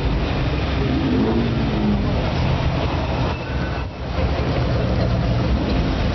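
C3 Corvette Stingray's V8 running loud through an aftermarket muffler, with a deep, steady exhaust note that dips briefly a little past the middle before picking up again.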